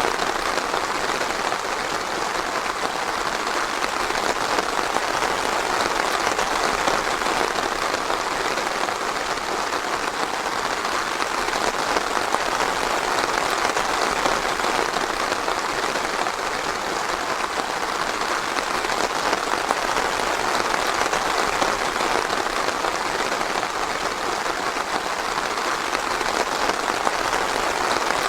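Steady rain falling in a forest: a dense, even patter of drops that holds constant.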